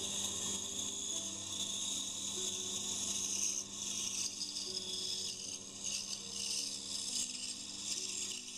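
Pégas scroll band saw running and cutting through a wooden block: a steady high hiss from the narrow blade in the wood, rising and falling slightly as the block is fed, over the low hum of the motor.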